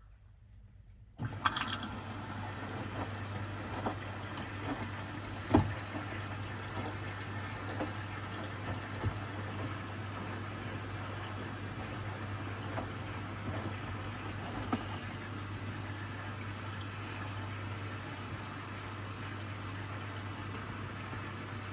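Hoover washing machine taking in water: the inlet starts suddenly about a second in, with steady rushing water and a constant low hum, and a single sharp knock a few seconds later.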